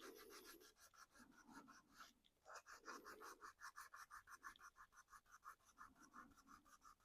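Faint, quick back-and-forth scratching on a small plastic model body, about five strokes a second, like hand work with fine abrasive or a stiff brush.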